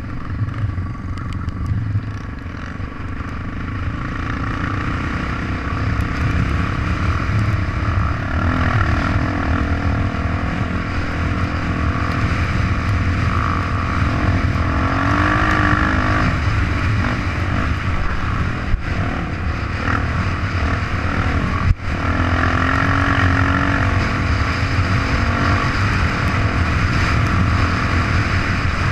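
Trail motorcycle engine running during a ride, its pitch rising and falling with the throttle over a heavy low rumble of wind and road noise.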